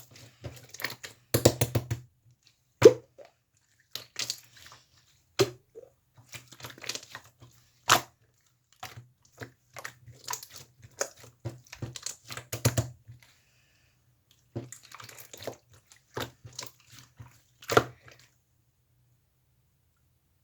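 Slime being squeezed and worked by hand, giving irregular sticky pops, clicks and squishes with short pauses. The sounds stop about two seconds before the end.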